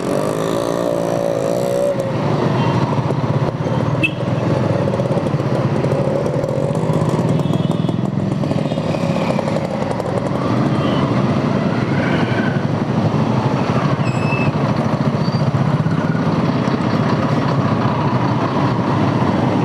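Dense city traffic noise around a motorcycle stuck in a jam: motorcycle and car engines running and idling in a steady rumble, with a wavering pitched sound in the first two seconds.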